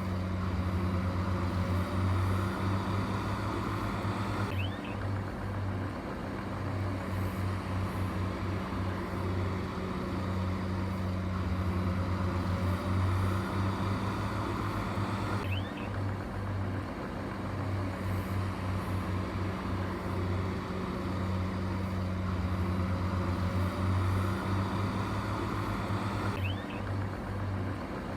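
Heavy construction machine's diesel engine running steadily with a low, even drone. The same stretch of sound repeats about every eleven seconds, like a loop.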